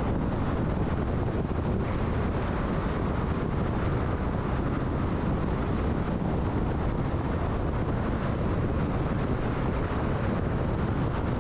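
Car cruising at freeway speed: a steady rush of tyre and wind noise, heaviest in the low range.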